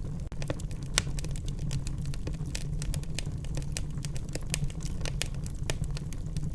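Wood fire in a fireplace crackling: irregular sharp pops and snaps, several a second, one louder pop about a second in, over a steady low rumble.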